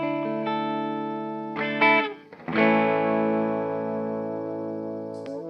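Electric guitar, a 1997 Korean-made Epiphone Les Paul Custom, played through an amplifier with light overdrive. Chords are struck and left to ring. After a short break about two seconds in, a new chord is struck and rings out, slowly fading, until it is muted near the end with a brief pick scrape.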